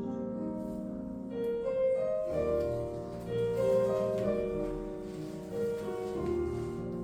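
Classical piano music accompanying a ballet class exercise, a melody of sustained notes over chords.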